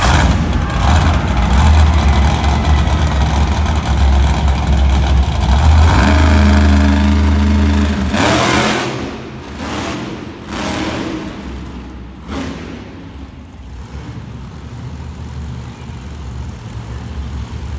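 Monster truck engine revving hard with a heavy, loud low rumble for about eight seconds. Then it sweeps up in pitch once more and falls back to a quieter, steadier run.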